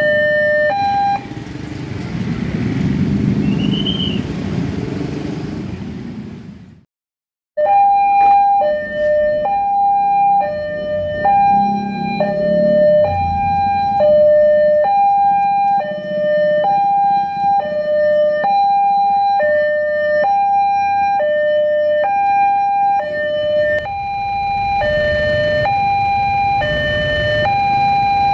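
Railway level-crossing warning alarm, the replacement alarm on a Siemens barrier system, sounding a two-tone hi-lo pattern that switches between a higher and a lower tone about once a second. For several seconds near the start a low rumble takes over and the tones are absent. After a brief total dropout, the alternating tones resume.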